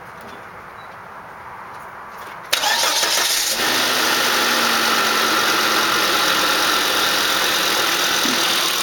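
Volvo V70 2.5T's turbocharged inline five-cylinder starting about two and a half seconds in: about a second of cranking, then it catches and settles into a steady idle. Its aftermarket open cone intake filter adds a strong, vacuum-like hiss of intake air over the running.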